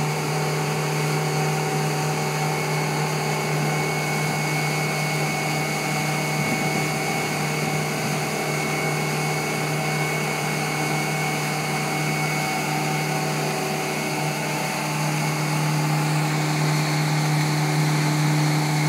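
Motorboat engine running steadily underway, a constant drone with a strong low hum, picking up slightly in level near the end.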